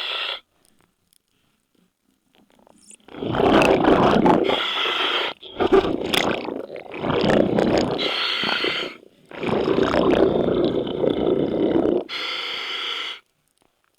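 Underwater breathing through a scuba regulator: several rumbling bursts of exhaled bubbles, each lasting one to two seconds. They start about three seconds in, after a near-silent stretch.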